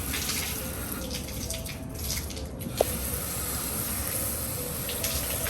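Water running in a steady spray onto a car's glass panel for a water-sheeting test, with one short click about three seconds in.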